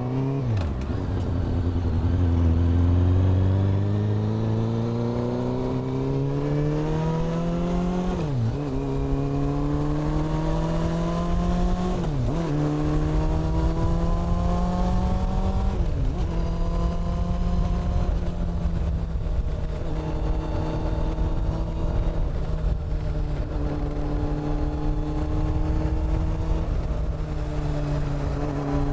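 Honda CB400 Super Four's inline-four engine and exhaust pulling through the gears, the pitch climbing and falling back at each upshift about four times in the first sixteen seconds. It then settles to a steady cruise with only small changes in pitch.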